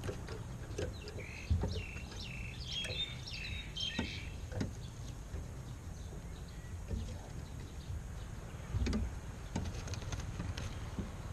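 A small bird chirping: a quick run of short, high notes from about a second in until nearly five seconds in. Under it is a low outdoor rumble, with a few sharp knocks.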